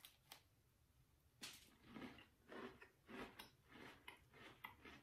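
Faint bite into a crunchy caramel coconut Oreo, then quiet closed-mouth chewing, about two soft chews a second.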